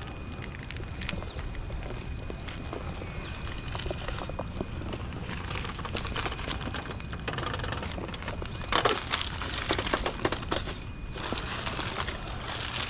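Scale RC crawler truck working over rough, rocky ground: scattered crackles and knocks of tires and chassis on rock, with a cluster of louder knocks about nine seconds in, over a low rumble.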